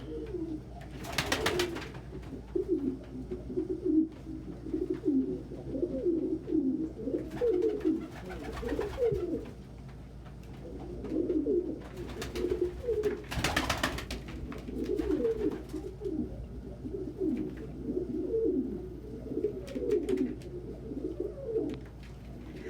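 Several domestic pigeons cooing over one another, many short rolling coos throughout. Three brief rushing noises stand out about a second in, near the middle and a little after.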